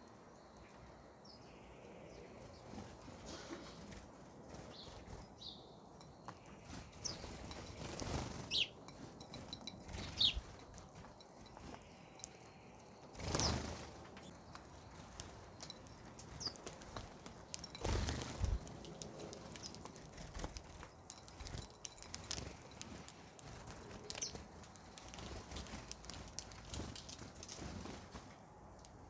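Birds feeding: scattered small taps and clicks, a few brief high chirps, and three louder short rustling bursts like wing flutters.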